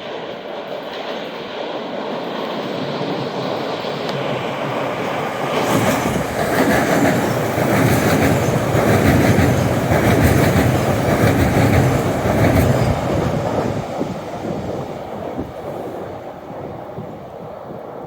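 A train running past on the rails, wheels clattering over the track, building to its loudest in the middle and then fading away.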